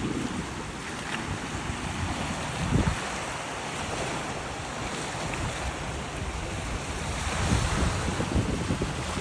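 Gusty storm wind buffeting the microphone over a steady rush of wind and water, with heavier gusts about three seconds in and again near the end.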